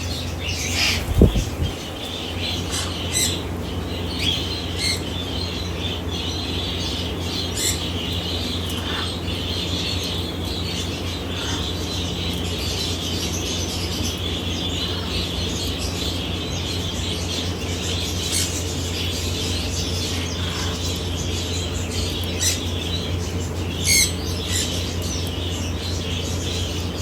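Scattered short high bird chirps and clicks over a steady low hum, with one sharp thump about a second in and a louder chirp near the end.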